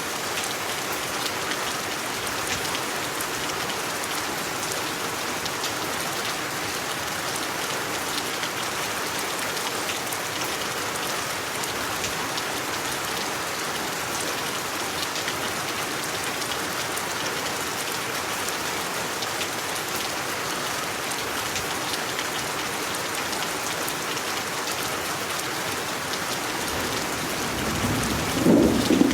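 Steady rain, a dense even hiss of many drops falling on a surface. Near the end, a loud low rumble of thunder begins.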